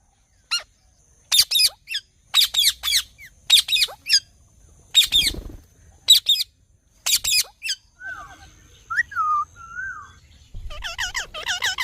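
Parrot giving a series of short, harsh screeching calls in quick clusters, then a few clear whistled notes, and near the end a rapid string of chattering calls.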